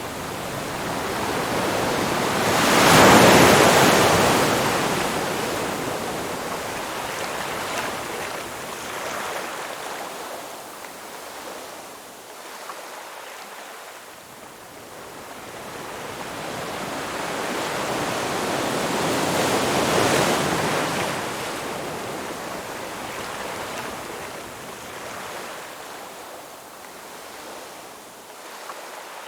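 Ocean surf: a wave breaks about three seconds in and another about twenty seconds in, each crash fading into a long, slow wash of water.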